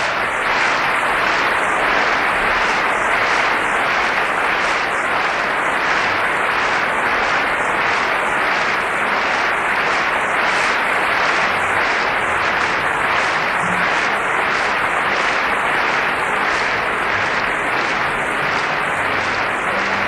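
Large concert-hall audience applauding enthusiastically, a steady, dense wash of clapping. It comes through an old broadcast recording with a wavering, phasey top end.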